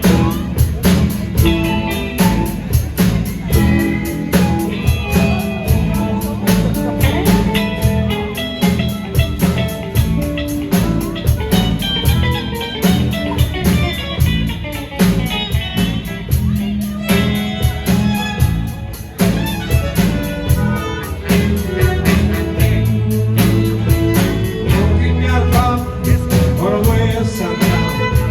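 Live band playing a song: guitar over bass and a steady drum beat.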